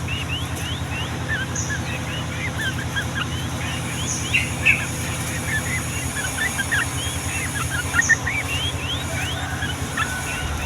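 Yellow-vented bulbul (trucukan) song: a long, dense run of quick rising and falling chirps, over a steady low mechanical hum.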